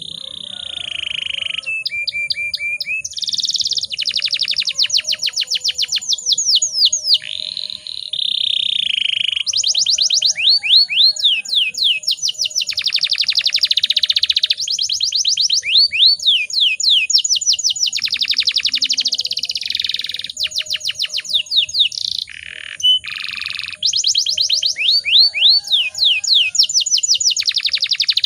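Canary singing a long continuous song. Runs of rapid repeated down-sweeping notes alternate with held rolling trills, with only brief breaks between phrases.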